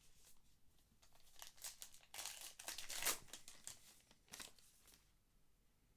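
Crinkling and tearing of a baseball card pack's wrapper being opened, loudest in the middle and ending with a last rustle a little after four seconds.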